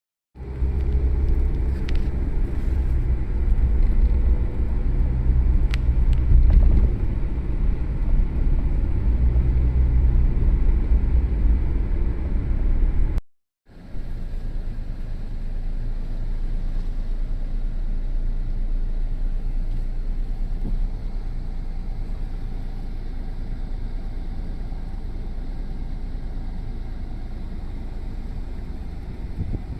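Strong typhoon wind rumbling and buffeting the microphone, gustier and louder in the first half. It cuts out briefly about 13 seconds in, then continues as a steadier, slightly quieter rumble.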